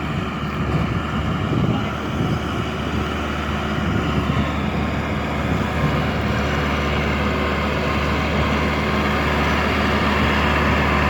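Tractor engine running at a steady speed, a low, even drone.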